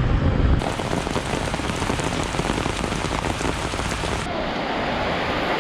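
Heavy rain falling on hard surfaces, a dense, steady patter. It cuts in about half a second in, replacing a low rumble of wind on the microphone.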